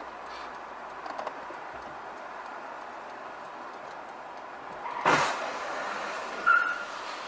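Steady road traffic noise, broken about five seconds in by a sudden loud bang and, a second and a half later, a brief high squeal.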